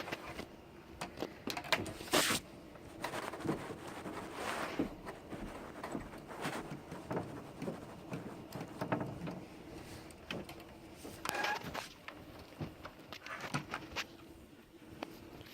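Scattered clicks, knocks and rustling as computer parts and the case are handled during a PC build, with a faint steady hum underneath.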